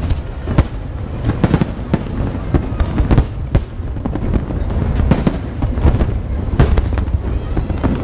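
Aerial fireworks going off: a rapid, irregular series of sharp bangs and crackles over a constant low rumble of explosions.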